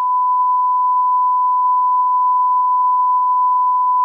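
Steady 1 kHz reference test tone of the kind played with SMPTE colour bars: one unbroken, single-pitched beep.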